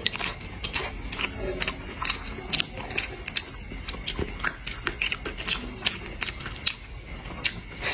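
Close-miked chewing: a person eating with her mouth near the microphone, giving a dense run of irregular wet clicks and smacks.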